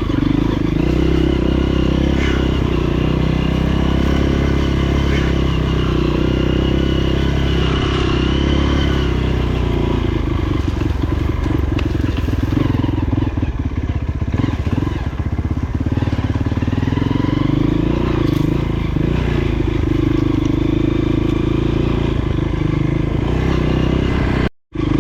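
Honda CRF230F dirt bike's single-cylinder four-stroke engine running steadily, its note shifting a little in the middle. The sound cuts out for a moment near the end.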